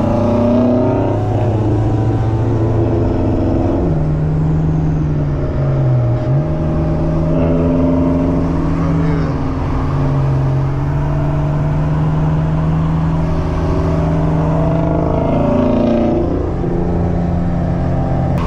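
2004 Honda Civic coupe's engine running under way, with road noise. Its steady drone shifts in pitch several times with throttle, stepping up about four seconds in and dipping briefly a couple of seconds later.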